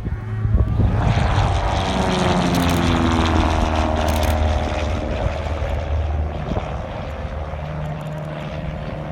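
Cessna 172 single-engine propeller plane passing by, its four-cylinder piston engine and propeller droning loudly. The pitch falls as it goes past, then the drone steadies and eases a little.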